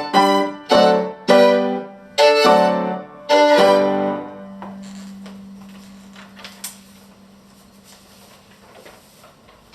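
Violin and piano playing a series of loud, separate closing chords, about five in four seconds; the last chord rings and dies away slowly over several seconds, leaving faint room noise with a few small clicks.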